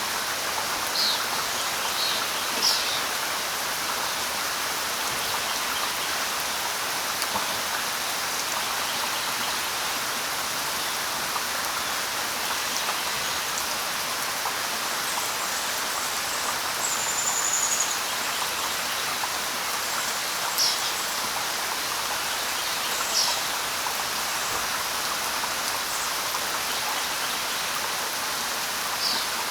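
Steady light rain falling on leaves and ground, an even hiss of drops. Now and then birds give short, high chirps, a few near the start, a few more later on, and one brief high whistle about halfway through.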